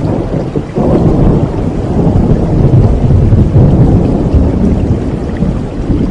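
Rain falling steadily with a deep rolling rumble of thunder that swells suddenly about a second in and carries on loud.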